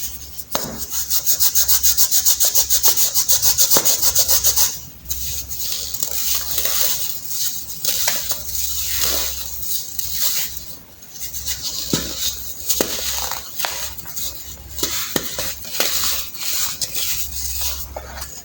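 Crunchy reformed baking soda being crushed and rubbed by hand. First comes a fast, even scraping rhythm for about four seconds, then irregular crunches and crumbling with small sharp cracks.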